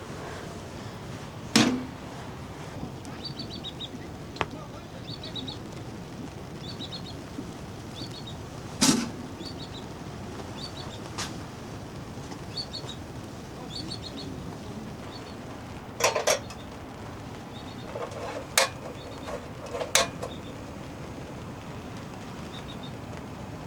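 A small bird chirps again and again in short runs of three or four high notes over a steady hiss. A few sharp clinks and knocks, like cups or pots being handled, stand out about 1.5 and 9 seconds in and several times near the end.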